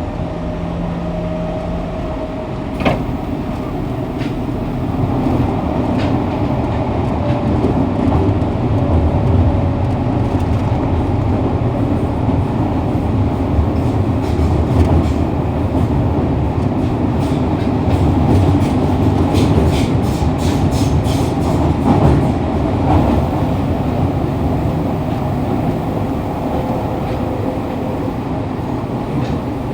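Fukuoka City Subway 2000-series train running, heard from inside the car with the recorder on the floor: a steady low rumble of the wheels on the rails that grows louder after about five seconds. There is one sharp click about three seconds in, and a run of sharp clicks from about fourteen to twenty-three seconds in.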